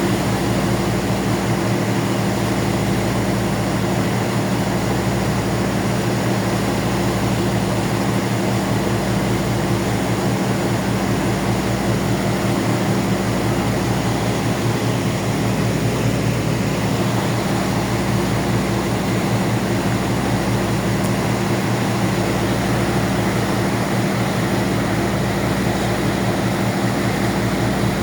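Ferry's engines running with a steady low drone and hum, heard on board the vessel.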